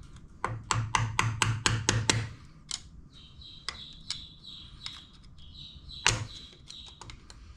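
Hammer tapping the metal lock clip on a milling-machine spindle's lock nut to knock it free: a quick run of about ten light taps, then a few single taps, one harder tap about six seconds in.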